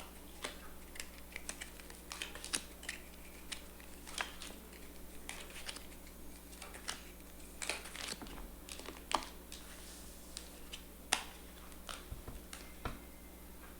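Playing cards being handled and laid down on a table: a string of light, irregular clicks and soft taps over a low room hum.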